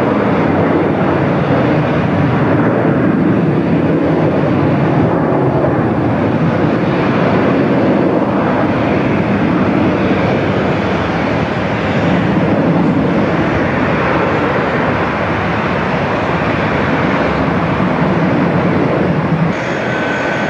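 Jet airliner engines running, a loud steady noise without letup. Near the end the sound changes abruptly and thin high whining tones come in.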